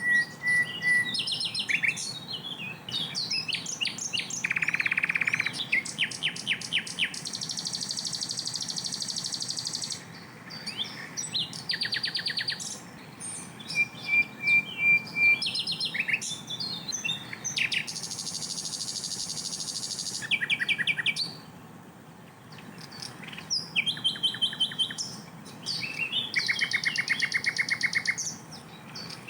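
Sikatan londo flycatcher singing a long run of varied phrases. Sweeping high chirps alternate with rapid-fire trills of repeated notes and buzzy stretches lasting a second or two, with short pauses between bouts.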